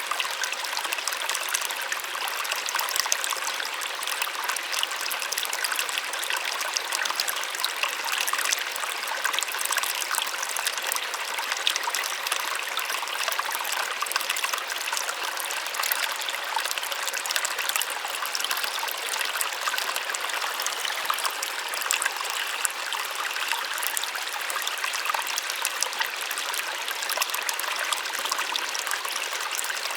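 Small waterfall: a steady, gentle rush of falling water, splashing and trickling, bright and light with almost no low rumble.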